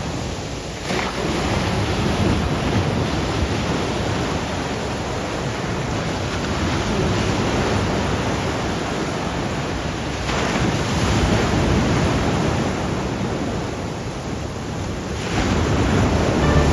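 Sea waves breaking and washing ashore, surging about a second in, again around ten seconds and once more near the end, with wind noise on the microphone.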